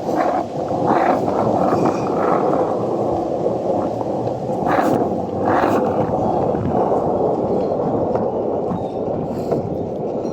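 Skateboard wheels rolling over pavement in a steady rumble, with wind buffeting the microphone. A few sharp knocks, two of them around the middle.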